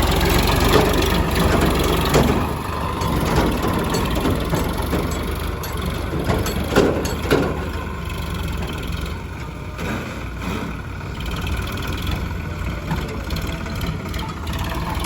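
Heavy diesel engine running steadily, with a few dull thumps about a second in, around two seconds in, and twice about seven seconds in.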